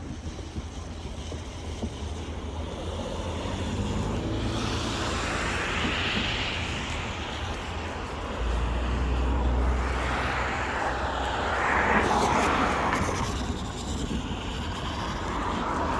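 Vehicle noise that swells and fades twice, with a low rumble joining about halfway through.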